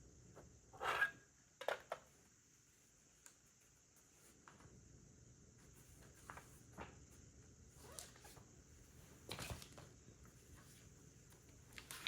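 Plastic Lego bricks being handled and pressed together: a few scattered short clicks and rustles, loudest about a second in and again past nine seconds.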